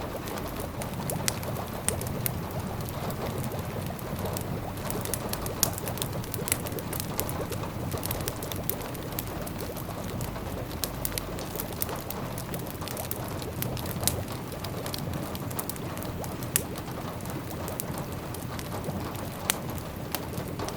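Wood fire crackling in a fireplace, with frequent sharp pops and snaps over a steady low rumbling hiss.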